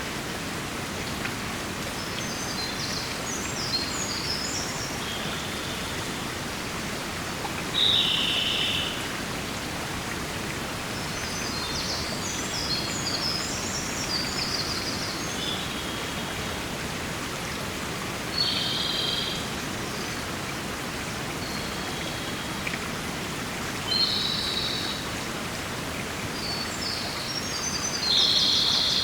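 Songbirds singing in short phrases of quick high notes every few seconds, the loudest near 8 seconds and at the end, over a steady rushing hiss of forest water.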